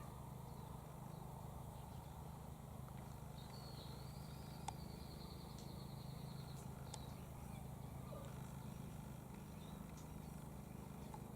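Faint outdoor background with a steady low hum, a short high trill from a bird about three and a half seconds in, and a few sharp clicks, one louder click in the middle.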